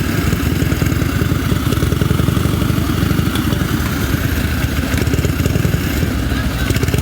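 Antique motorcycle engine running steadily with a rapid, even beat and no revving.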